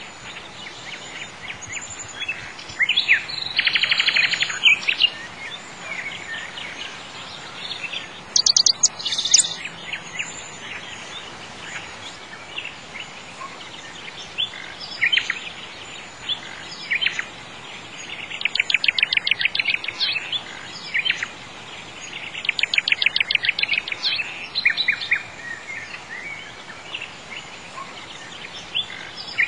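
Birds chirping and singing, with several loud rapid trills, over a faint steady hiss.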